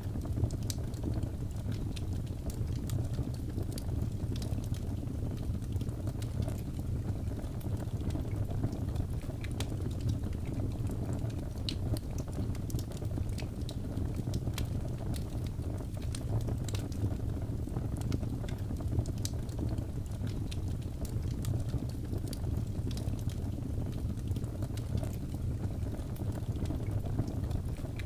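Wood fire burning: a steady low rush of flames with scattered sharp crackles and pops.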